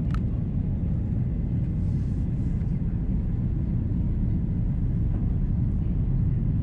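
Steady low cabin rumble inside an Airbus A330-343 on approach, from its Rolls-Royce Trent 700 engines and the airflow past the fuselage, with a single short click right at the start.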